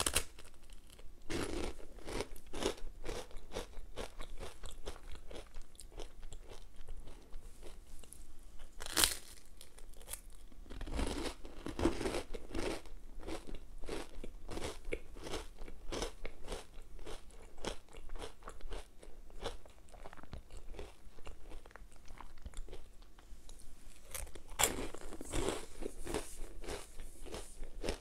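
Close-miked eating of a crisp Nutella bread snack: sharp crisp bites followed by steady crunching and chewing. The loudest bites come at the start, around 9 and 12 seconds, and near the end.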